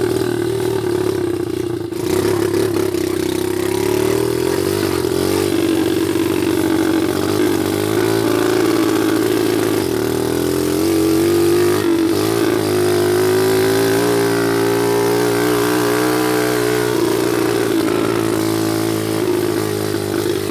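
Small mini-cross dirt bike engine running while being ridden, its pitch rising and falling gently as the throttle is worked.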